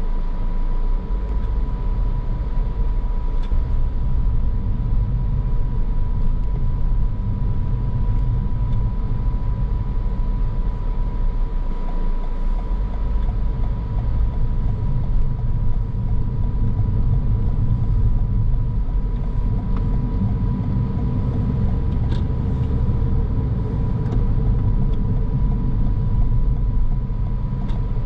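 A car driving along, with a steady low rumble of tyres and engine, a thin steady whine running through it, and a few faint ticks.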